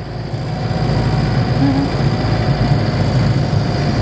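Camper van engine running steadily, heard from inside the cab on a test drive, after a timing belt replacement and with the fuel mixture leaned off to stop black smoke.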